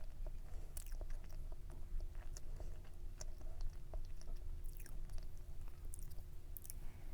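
Close-miked chewing of a mouthful of cake, with scattered small clicks and crackles.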